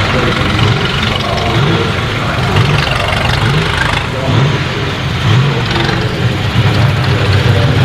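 Sauber Mercedes C9's turbocharged 5.0-litre V8 race engine running at low revs, its pitch rising and falling again and again under small throttle blips.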